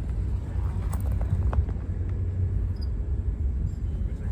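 Steady low rumble of a moving vehicle, with a few faint clicks about a second in.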